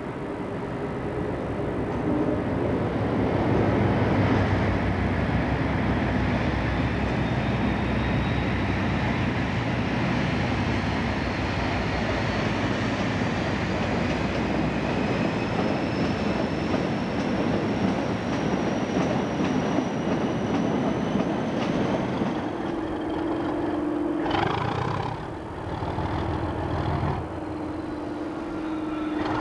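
Train running on the rails: a long rumble of wheels builds about two seconds in, with a faint whine slowly rising in pitch over it. After about 22 seconds the rumble eases and a steady hum takes over.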